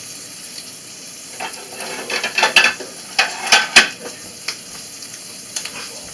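Flour tortillas with ham and cheese frying in butter in a pan, sizzling steadily. Between about one and a half and four seconds in, a run of sharp clinks and scrapes of a utensil against the pan.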